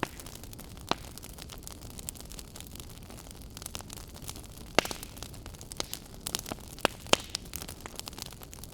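Wood fire burning in a fireplace, crackling and popping over a low steady hiss, with sharp pops that come thicker in the second half, the loudest about five seconds in and near seven seconds.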